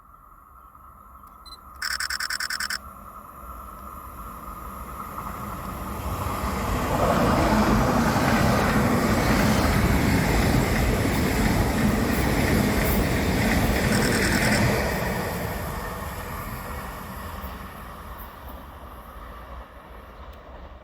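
A train passing through, its rumble building, loudest for about eight seconds, then dying away. A short, high, pulsing tone sounds about two seconds in, and a faint high squeal rides on the noise as the train goes by.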